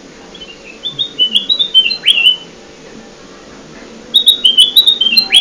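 Kutilang emas bulbul song used as a bird-catching lure: two quick phrases of short, chirpy whistled notes, each ending in a sharp downward slur. The second phrase comes about three seconds after the first.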